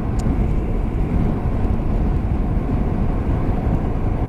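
Steady rush of wind and road noise from a Honda Varadero 125 motorcycle riding at speed, a loud low rumble with no clear engine note standing out.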